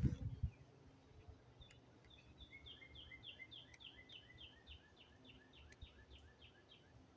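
A songbird sings a long run of quick, evenly repeated notes, about three a second, starting about two seconds in and ending near the close. A brief low rumble comes at the very start.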